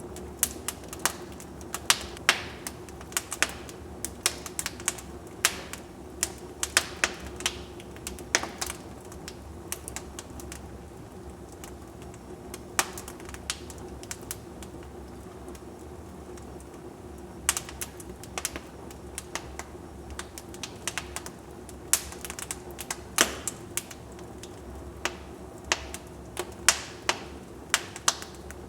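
Wood fire burning in a fireplace, crackling: irregular sharp pops and snaps over a steady low background of the burning, coming in busy flurries with a sparser stretch in the middle.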